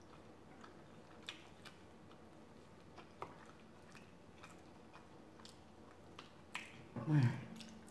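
Quiet close-up eating sounds from a person chewing garlic naan, with scattered soft mouth clicks and smacks. A brief vocal sound comes near the end.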